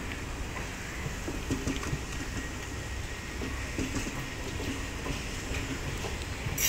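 Passenger coaches of a departing electric-hauled express rolling past at low speed: a steady rumble of wheels on rail with scattered clicks from the bogies and rail joints. There is a sharp clank near the end.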